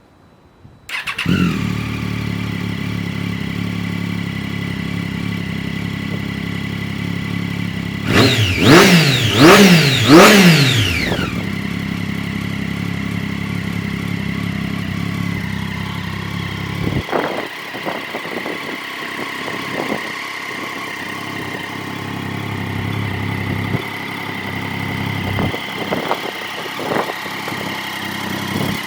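Triumph Daytona 675's three-cylinder engine starting about a second in and idling, then revved three times in quick blips, which are the loudest part, before settling back to idle.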